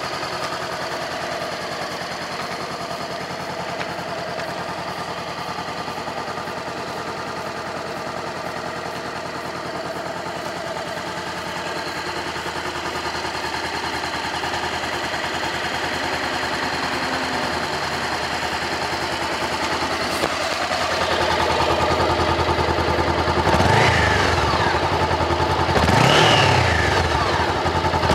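Honda 400X's 399 cc parallel-twin engine idling steadily, then revved three times in the last five seconds, each a quick rise and fall in pitch.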